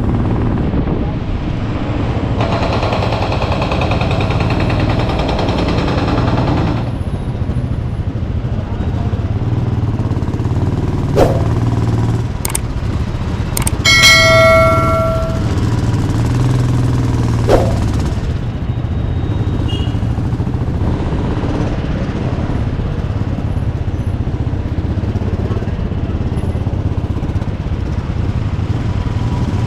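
Motorcycle engine running steadily while riding through slow traffic. A vehicle horn sounds once for about a second and a half near the middle, and a few sharp clicks come around it.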